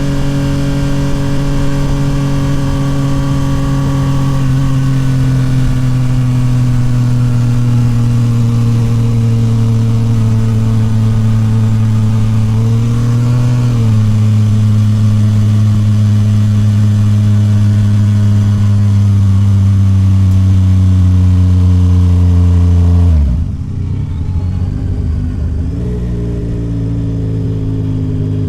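Yamaha MT-09 SP's 890 cc inline-triple with a Toce full exhaust under way at steady throttle, its pitch sagging slowly, with a gear change about halfway through. Near the end the throttle closes and the revs drop sharply, then settle lower on the overrun.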